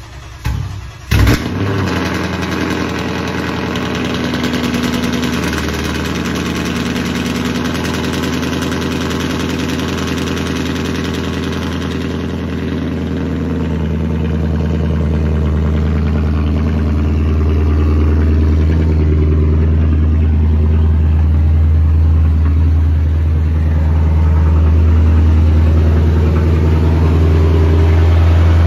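Straight-piped Ford Mustang engine starting cold: it catches with a sharp, loud flare about a second in, then runs at a loud, steady fast idle that drops to a deeper, heavier tone after about 13 seconds as it settles.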